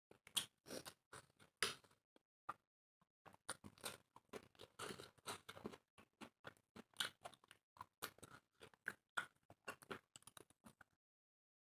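Close-miked chewing of dry flatbread and chicken curry, a run of short irregular mouth clicks and smacks. They come thickest from about three seconds in and stop shortly before the end.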